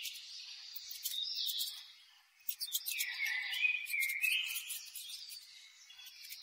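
Birds singing in warbling phrases that glide up and down, with a lull about two seconds in. Sharp, high ticks run alongside the song.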